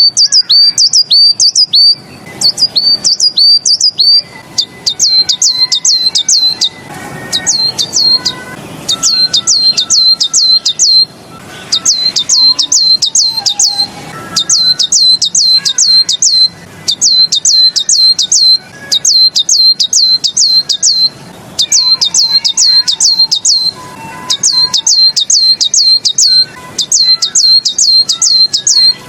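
A songbird, the Tieling-style 'beizi' (贝子) song phrase used to tutor caged birds, singing runs of sharp, high notes that each sweep quickly downward, about five to ten notes per run with short pauses between runs. Fainter, lower bird calls sound underneath.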